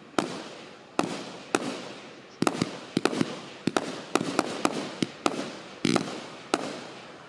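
Consumer fireworks battery (cake) firing a volley of shots: sharp bangs about every half second, sometimes in quick clusters of two or three, each trailing off as it dies away.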